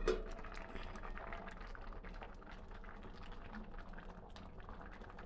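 Fish cooking in a pan, the liquid bubbling with many small crackling pops that slowly grow fainter. A short sharp knock right at the start.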